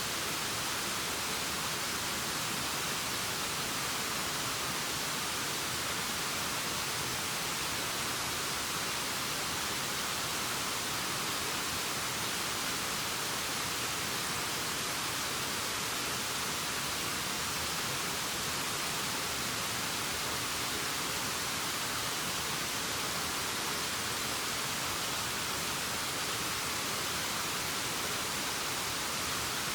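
Waterfall rushing, a steady even hiss weighted toward the high end, unchanging throughout.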